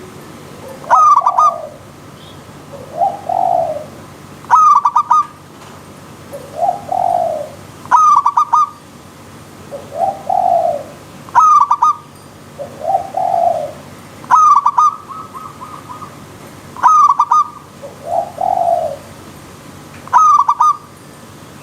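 Zebra dove (perkutut) song repeating about every three and a half seconds: a quick run of sharp notes followed by a lower rolling coo, over the steady rush of a river stream.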